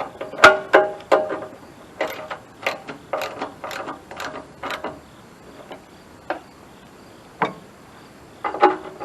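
Hand socket ratchet clicking in short bursts as a bolt on the sawmill's starter is worked. There is a pause with a couple of single metallic clicks, and then the clicking starts again near the end.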